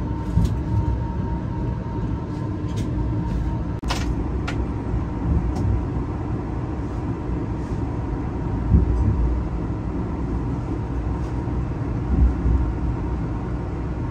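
Passenger train running, heard from inside the carriage: a steady low rumble with a few light clicks and knocks, and a faint steady hum that stops about four seconds in.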